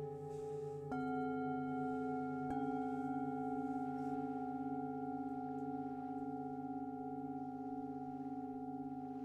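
Singing bowls struck twice, about one second and two and a half seconds in. Each strike adds to a long, slowly fading ring that pulses with a slow beat.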